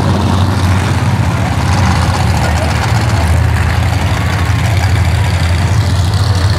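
Monster truck engine running steadily at a low, even idle, with a loud constant low hum and no revving.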